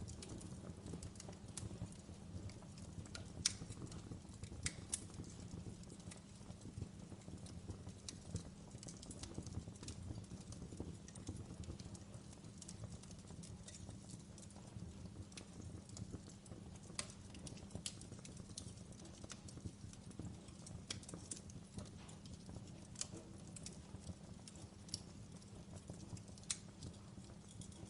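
Fire crackling: irregular sharp snaps and pops over a steady low rumble. The strongest pops come about three and a half seconds and five seconds in.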